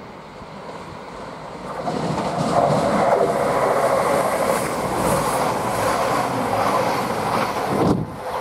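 CrossCountry Voyager diesel-electric multiple unit approaching and running along the station platform. The train noise grows steadily louder about two seconds in and stays loud, with a brief break near the end.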